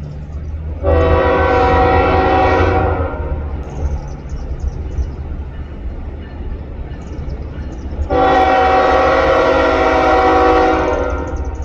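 Diesel locomotive horn sounding two long blasts, the first about two seconds long and the second about three, over the steady low rumble of the GE ES44AC locomotive's diesel engine.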